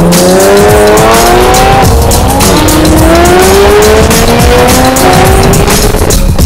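Jaguar F-Type V8 S's supercharged V8 accelerating hard through the gears: the revs climb steadily, drop back at an upshift about two and a half seconds in and again about five seconds in, then climb once more.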